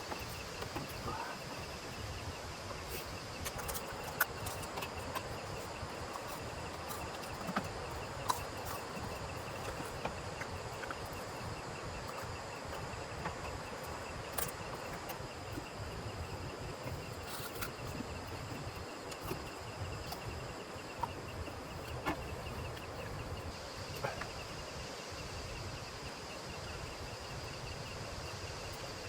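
Steady chorus of night insects, a continuous high-pitched trilling, over a soft background hiss, with a few sharp clicks scattered through it.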